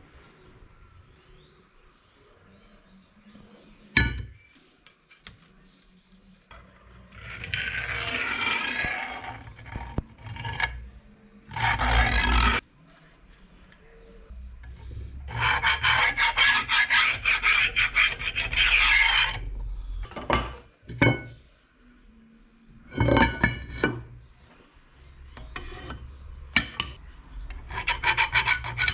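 Rasping, scraping strokes in several separate bursts, the longest about four seconds of quick repeated strokes. There is a single sharp knock about four seconds in.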